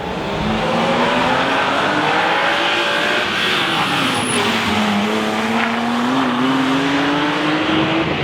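Rally car engine running hard on a stage, its pitch dipping about halfway through and then climbing steadily as the car accelerates, with tyre noise under it.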